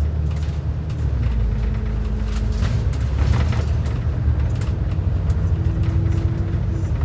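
Transit bus engine and drivetrain running under way: a heavy low drone with a thin whine above it that steps to a new pitch several times as the bus changes speed. A short burst of rushing noise comes about three seconds in.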